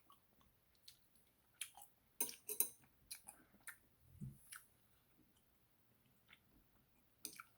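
Sparse soft wet clicks and squishes from cooked squirrel meat being pulled apart by hand, a cluster of them in the first half and one more near the end.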